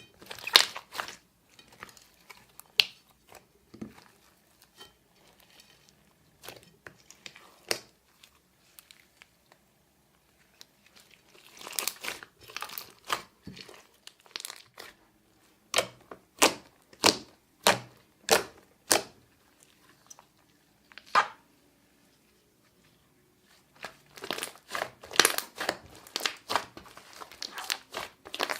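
Glossy slime being kneaded and pressed by hand, giving a run of sharp sticky clicks and pops in clusters, with short quiet pauses between groups.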